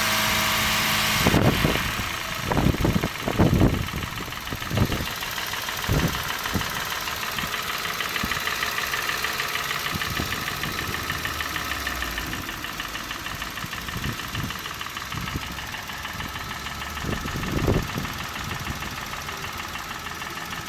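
Toyota Yaris 1KR-FE three-cylinder petrol engine idling with a fast, even ticking knock, the knock whose cause the owner is asking about. A steady hum in the first second stops abruptly, and a few dull thumps come in the first few seconds and again near the end.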